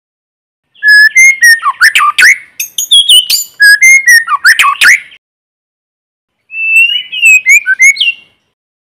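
White-rumped shama singing a challenge song: a long run of rich, fast-changing whistled notes starting about a second in, then, after a short pause, a shorter phrase of fluting notes.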